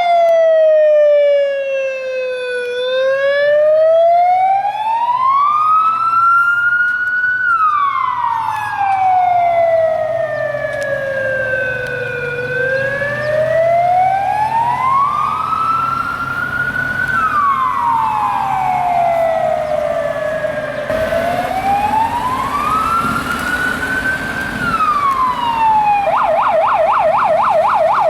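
Fire engine's electronic siren sounding a slow wail that falls and rises in pitch three times, then switches about two seconds before the end to a fast warbling yelp, with the vehicle's engine rumbling underneath: a fire appliance driving on an emergency run.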